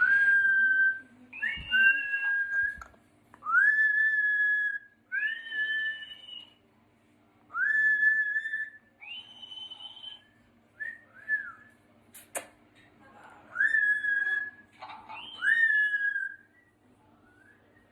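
Yellow-crowned Amazon parrot whistling a series of about nine clear whistles, each a quick upward swoop onto a held note, one every second or two. A single sharp click sounds a little after halfway.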